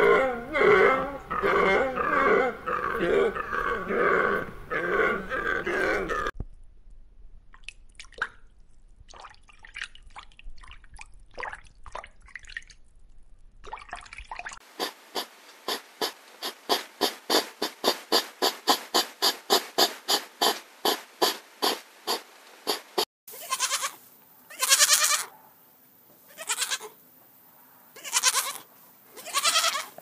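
A dense, continuous chorus of animal calls for about the first six seconds, then faint scattered snuffles and clicks. A hedgehog huffs in a fast, even rhythm, about three puffs a second, for some eight seconds. Near the end young goats bleat loudly about five times.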